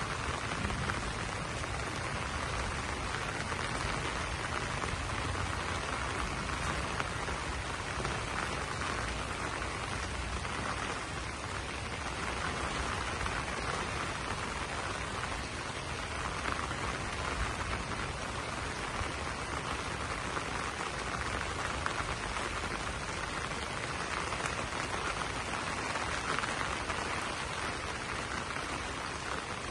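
Rain falling steadily on banana leaves: an even, unbroken hiss of drops.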